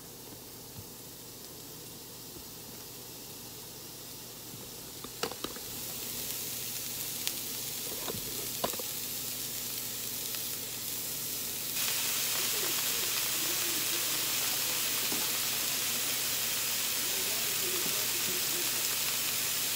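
Pineapple wedges sizzling as they fry in a hot non-stick frying pan. The hiss grows louder about a quarter of the way in, and louder again about halfway, with a few light knocks in between.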